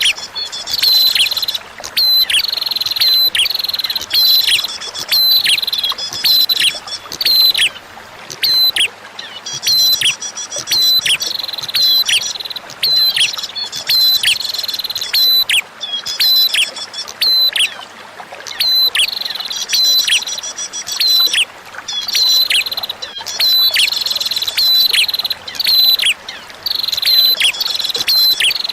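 Prinia (prenjak) singing over and over: loud, high chirping phrases, each a held high note with quick downward sweeps, coming about once or twice a second. A faint wash of running water lies underneath.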